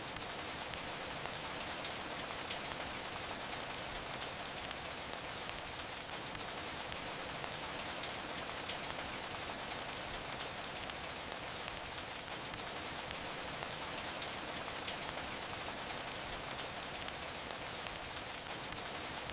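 Steady rain falling, with scattered sharp pops and clicks throughout, a few of them louder; these are the crackle of a wood fire.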